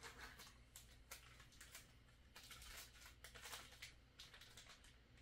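Faint rustling and crinkling of plastic packaging, in short irregular bursts, as small parts are handled.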